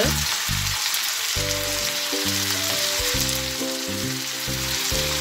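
Chicken pieces and sliced onions sizzling in hot oil in a stainless steel pan, a steady frying hiss. Background music of held notes plays underneath.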